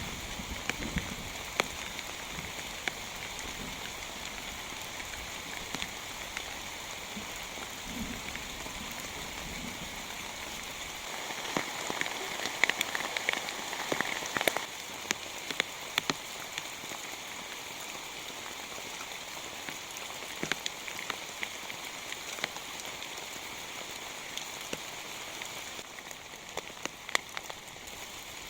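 Heavy rain falling steadily, with individual drops tapping sharply on a nearby surface. The drops come thicker and louder for a few seconds in the middle. A low rumble sits underneath for roughly the first third.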